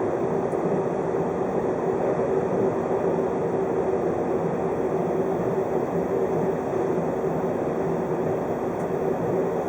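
Steady running noise of a 583 series electric multiple unit heard from inside the carriage, with a constant hum over the rumble of the wheels on the track.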